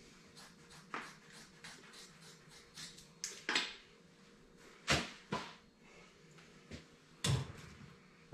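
Irregular clicks and knocks of objects being handled, with louder knocks about halfway and near the end.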